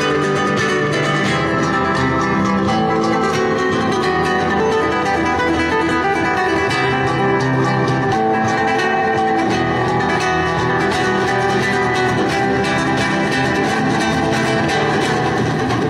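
Acoustic guitar played fast and continuously in a flamenco style, with rapid picked notes over strummed chords.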